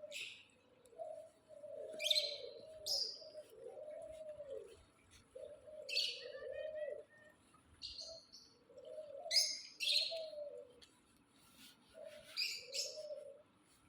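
Birds calling: doves cooing in repeated low, wavering phrases, with short high chirps from other birds over them every second or two.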